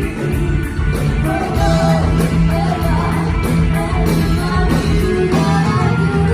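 Live rock band playing with singing, over a steady drum beat and a held bass note.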